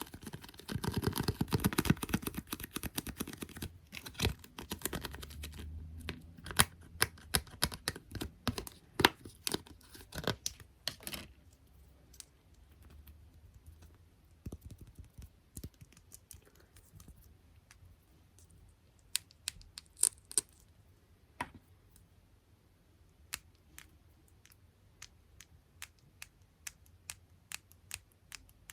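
Close ASMR tapping and scratching on small objects such as squishy toys, paper clips and stickers. It starts as a dense, rapid flurry for the first few seconds, then thins to scattered light taps and clicks, with two sharper clicks about twenty seconds in.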